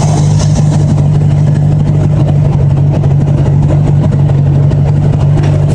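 1980s Honda Gold Wing motorcycle engine running at a steady, unchanging pitch, loud and close.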